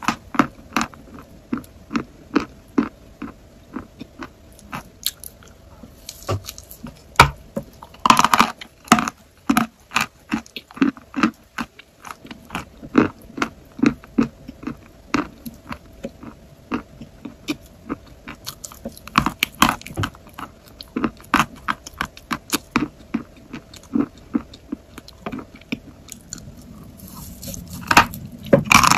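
Close-up chewing of dry chalk: sharp, crisp crunches two or three times a second. A louder run of crunching comes about eight seconds in, and a bite into a fresh piece of chalk near the end.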